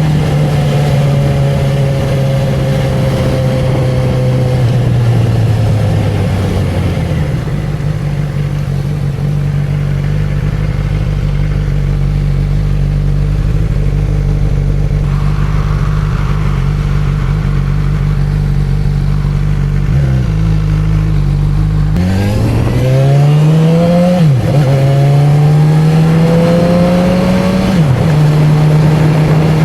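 Honda CB1000R's inline-four engine and exhaust, heard from the rider's seat: the engine note winds down as the bike slows, settles to a low steady idle, then rises as it pulls away, with two upshifts about 3.5 s apart near the end.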